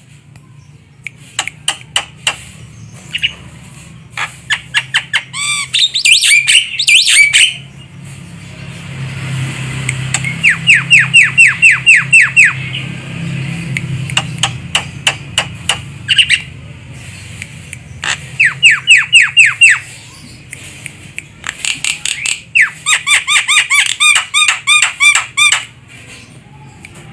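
Javan myna calling: several runs of quick, harsh repeated notes, each run about eight notes in a second or two, with sharp clicking notes in between. A steady low hum lies underneath.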